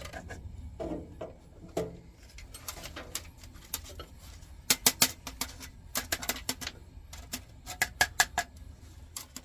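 Old candle wax being scraped and picked out of the bottom of a plain steel folding candle lantern: a run of sharp metallic clicks and scrapes, bunched in quick clusters in the second half.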